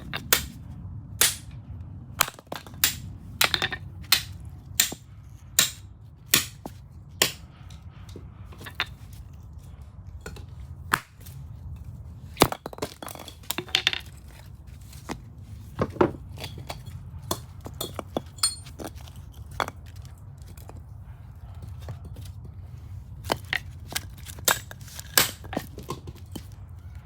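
Repeated sharp knocks and cracks of oak firewood being struck and split. They come about one a second at first, then in irregular clusters, over a steady low hum.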